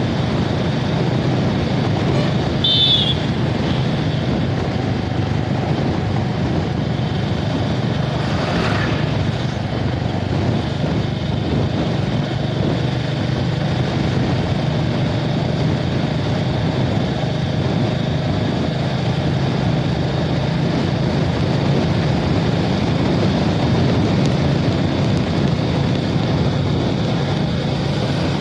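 Motorcycle engine running steadily while riding, with wind rushing over the microphone. A brief high-pitched tone sounds about three seconds in.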